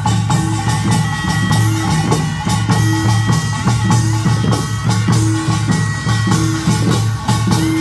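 Korean pungmul farmers' band playing at full volume: fast, dense clanging of kkwaenggwari small gongs over janggu and buk drums, with a steady low gong tone beneath and high held melody notes that step in pitch above.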